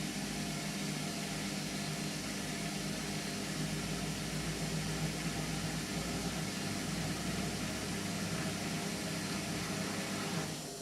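Indesit MTWC71252WUK washing machine running mid-cycle on its Sports programme: a steady hum with an even whooshing noise over it. Right at the end the sound changes and drops slightly.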